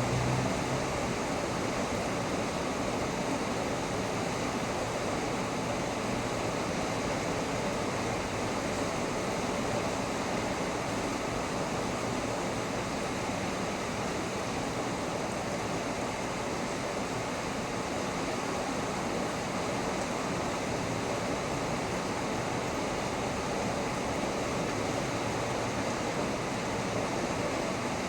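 Heavy rain pouring steadily during a thunderstorm, an even hiss with no let-up.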